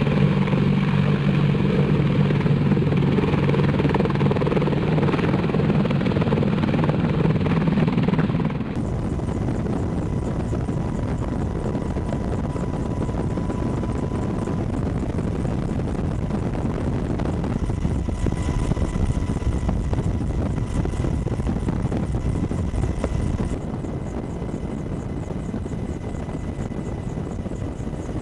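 AH-64 Apache attack helicopter running: a loud, steady rotor and engine drone for the first several seconds. Then it cuts abruptly to a quieter, rougher helicopter noise with a faint steady high tone.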